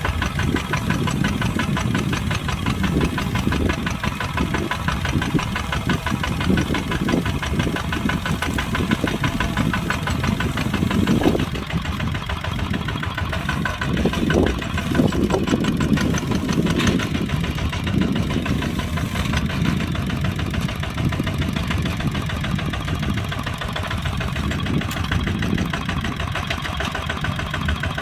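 Kubota tractor's diesel engine running steadily, with a rapid, even firing pulse.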